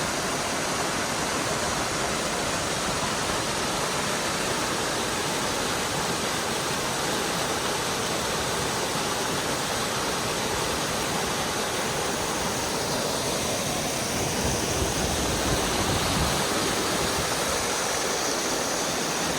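Rushing water of a rocky hill stream with waterfalls, a steady rush that swells a little, with more low rumble, about fourteen seconds in.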